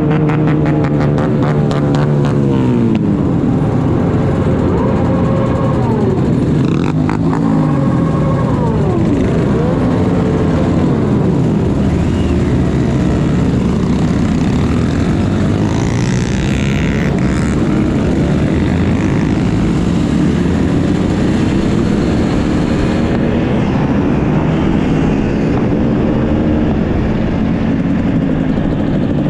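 Motorcycle engine running at speed, its pitch repeatedly rising and falling as the throttle opens and closes and gears change.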